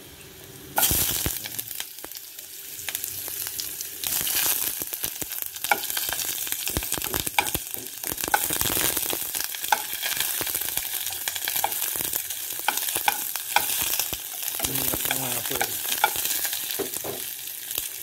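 Garlic and sliced red onion sizzling in hot oil in a pot, with sharp crackles and some stirring. The sizzle jumps louder about a second in, and again around four seconds in.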